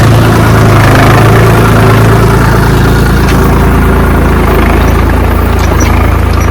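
Diesel tractor engine running loud and steady in first gear, pulling a cultivator through the field to till the soil.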